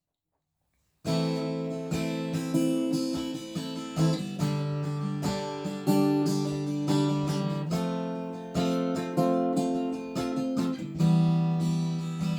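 Acoustic guitar strumming chords, starting about a second in, each chord struck and left to ring and fade before the next.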